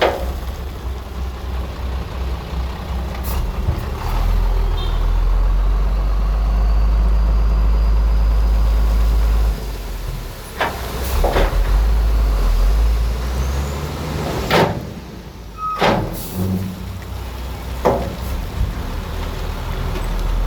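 Heavy diesel engine of a working bulldozer running under changing load, its low note stepping up and down, with several sharp metallic clanks.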